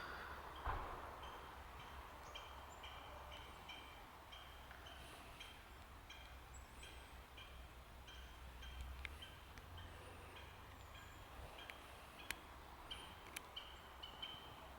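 Faint birdsong in a forest: a bird repeats short, high double notes about two to three times a second, with a few other chirps higher up. There is a single knock about a second in, over a low steady rumble.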